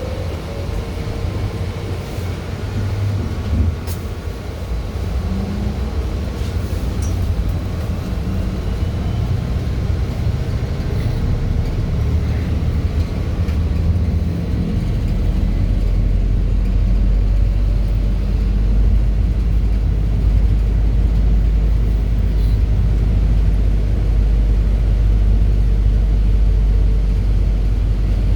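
Ride inside a BKM 32100D trolleybus as it pulls away and gathers speed: a whine from the electric drive rises in pitch at the start, and the low road and running rumble grows steadily louder, heaviest in the second half.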